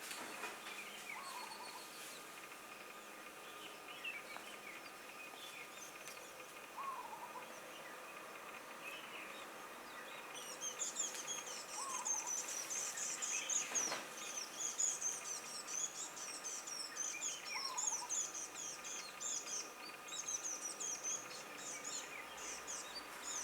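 Wild birds calling: a short low call repeats about every five or six seconds, and from about ten seconds in a rapid high-pitched twittering joins it.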